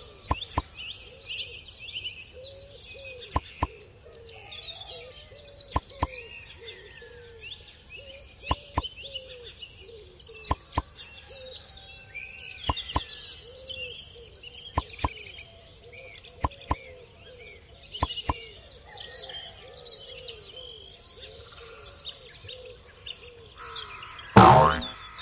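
Many small birds chirping and calling, over a low call repeated again and again, with a pair of sharp clicks about every two seconds. A loud twanging sound cuts in near the end.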